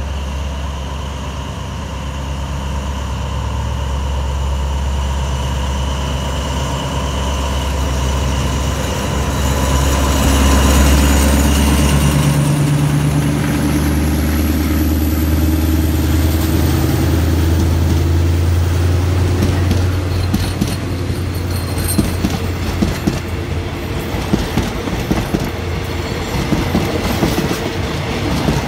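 A diesel locomotive hauling a passenger train passes close by, its engine hum building to a peak about ten seconds in, with a slowly rising whine. The coaches then roll past, their wheels clicking steadily over the rail joints.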